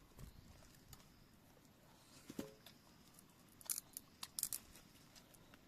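A few faint, sharp clicks and taps, mostly bunched together about four seconds in, with a brief low sound a couple of seconds in.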